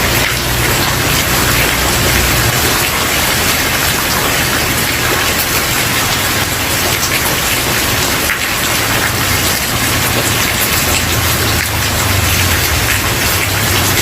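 Steady heavy rain falling on a wooden porch, an even hiss of drops with a low rumble that comes and goes underneath.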